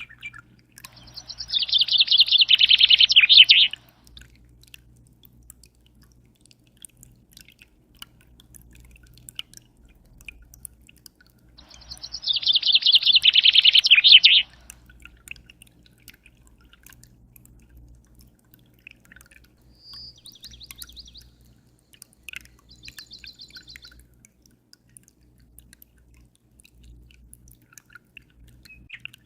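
A bird singing two loud, rapid trilled phrases of about two and a half seconds each, some ten seconds apart, followed by a few fainter short calls. Faint water drips and a steady low hum run underneath.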